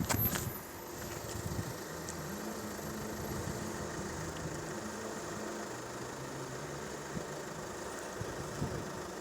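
A vehicle engine idling: a faint, steady low hum.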